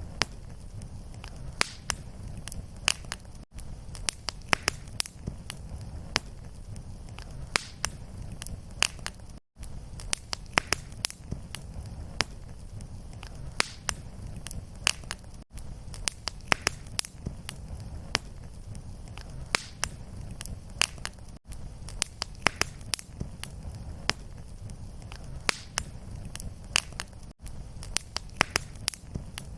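Fireplace fire crackling: frequent sharp pops and snaps over a steady low rumble of flame. A very short gap comes about every six seconds, where the looped recording restarts.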